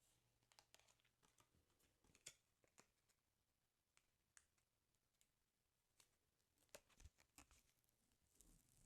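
Very faint paper crinkling and scattered crisp ticks from a football sticker album being handled, with a few slightly louder snaps about two seconds in and around seven seconds in.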